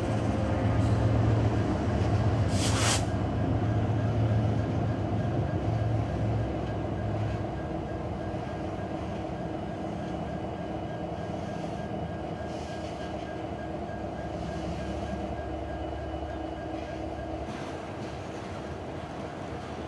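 Freight train of BNSF covered hopper cars rolling past: a steady rumble of wheels on rail that slowly eases off. A low drone drops out about seven seconds in, and a short hiss comes about two and a half seconds in.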